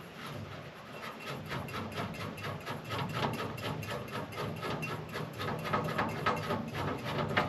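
A screw-on camping gas stove being twisted off its gas canister by hand: the threads and fittings scrape and creak in quick repeated strokes, about four a second. The unit is stiff to unscrew.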